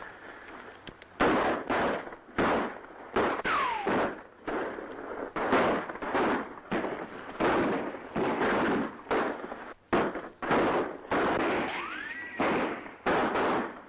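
Gunfight sound effects: a rapid, irregular exchange of about twenty gunshots, each with an echoing tail. Two ricochet whines come through, one falling about three seconds in and one rising near the end.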